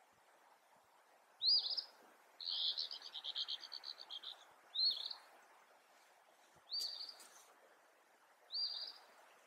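Small woodland birds chirping: single short, sharp chirps every couple of seconds, with a fast trill lasting about two seconds starting a little after the first chirp.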